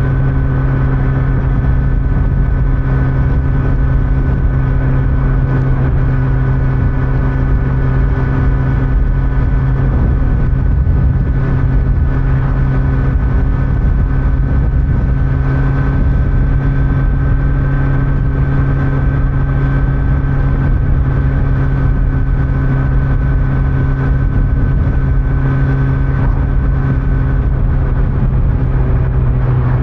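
Kawasaki Z900 inline-four engine running at steady revs through its stock exhaust while riding, with road noise underneath; the pitch holds nearly constant with only slight drift.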